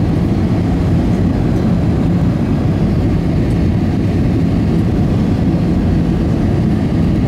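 Steady cabin roar of an Airbus A320 on final approach, engine and airflow noise heard from inside the passenger cabin, with a few steady low hums under it.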